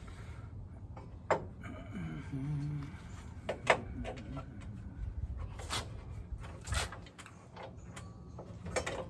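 Scattered clicks and knocks of hands adjusting and measuring a table saw blade's height, with a brief low squeak or hum a couple of seconds in.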